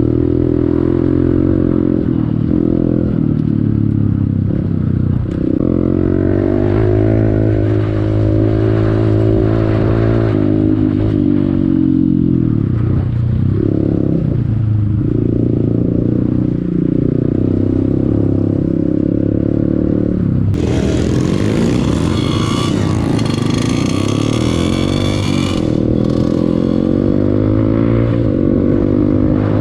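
Honda CRF150L trail bike's single-cylinder four-stroke engine running under riding load, its revs rising and falling with the throttle. A brighter, higher sound joins for about five seconds past the middle.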